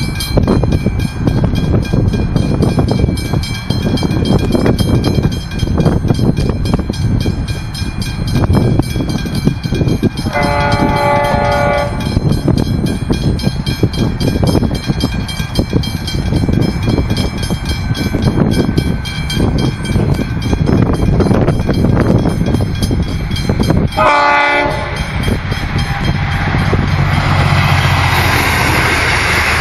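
V/Line passenger train running past, wheels clattering over the rails, with a horn blast about ten seconds in and a second blast near the end that cuts off abruptly. After that the sound turns to a steadier hiss and low hum of a train.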